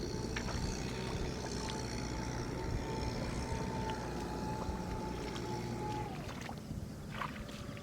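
Tractor engine running steadily; about six seconds in its pitch drops and the sound fades, leaving a few sharp clicks.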